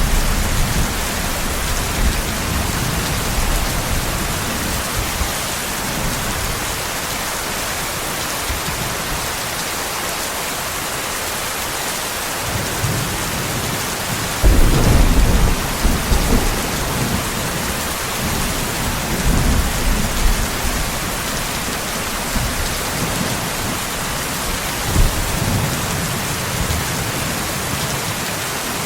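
Steady heavy rain hissing, with low rumbles of distant thunder rolling in and out; the loudest roll comes about halfway through.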